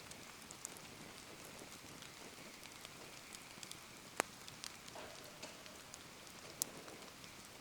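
Steady rain falling, with a wood bonfire crackling through it: scattered sharp pops over an even hiss, the loudest about four seconds in and again near seven seconds.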